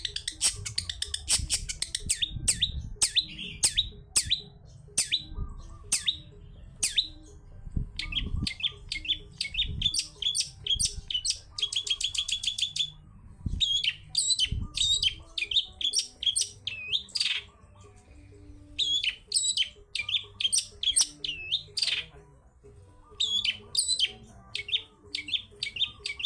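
Long-tailed shrike (cendet) singing a fast, varied song of sharp chirps, quick repeated notes and rapid trills, with brief pauses between phrases.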